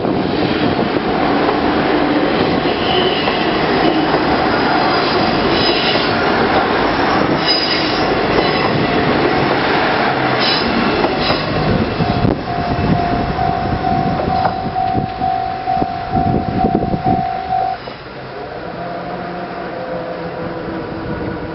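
A four-car train of KiHa 48 diesel railcars crossing a river bridge at reduced speed, with a loud rumble of wheels on rail and scattered high squeals. Near the end a steady squeal holds for about five seconds. The train sound then drops away about eighteen seconds in, leaving wind.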